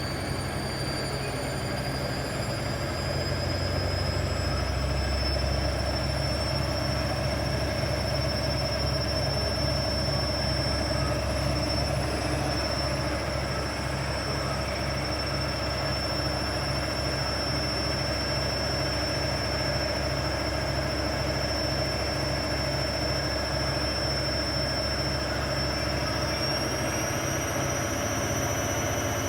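Washing machine on its spin cycle: the drum rumbles steadily while the motor's high whine rises in pitch over the first few seconds as the drum speeds up, holds, then climbs again near the end.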